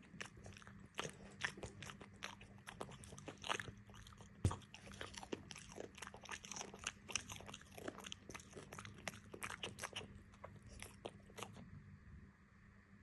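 Someone chewing and biting crunchy food, a dense run of irregular crunches that stops about a second and a half before the end, with one louder crunch about four and a half seconds in.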